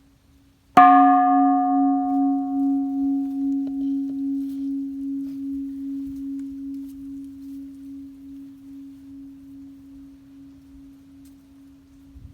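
A struck metal bell-like object rings once: a low steady tone with a slow wobble that fades away over about eleven seconds, while brighter overtones die out within the first few seconds.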